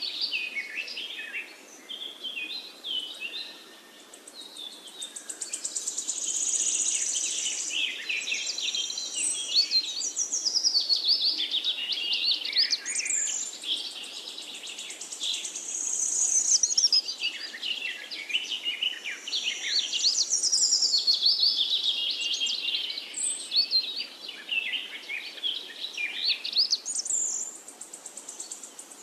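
Many songbirds chirping and singing at once in a dense, overlapping chorus of quick high notes and whistles that swells and fades every few seconds.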